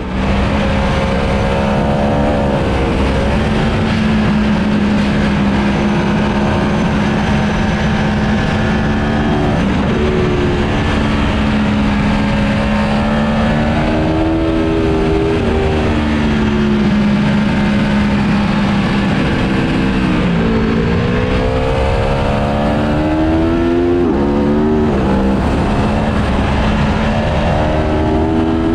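Aprilia Tuono V4 Factory 1100's V4 engine heard on board at racetrack speed, the revs climbing and then dropping again and again through gear changes and hard braking.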